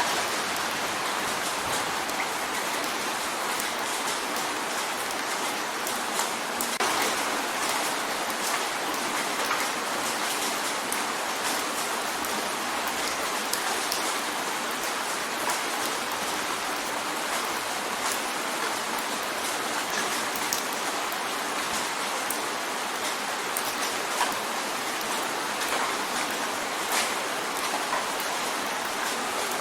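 Steady rain drumming on a window pane, an even hiss of rain with scattered sharper drop ticks throughout.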